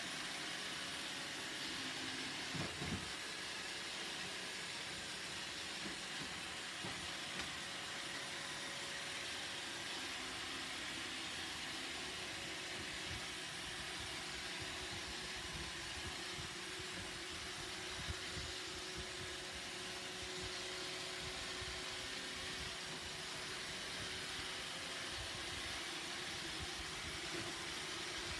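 Roomba robot vacuum running with a steady whirring hiss from its motor and brushes, with a few faint knocks as it bumps into things.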